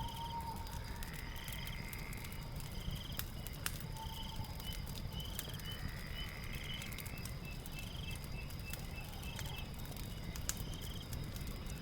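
Night ambience of chirping creatures, short trills repeating about once a second over a steady high tone, mixed with a fireplace crackling in scattered sharp pops over a low rumble.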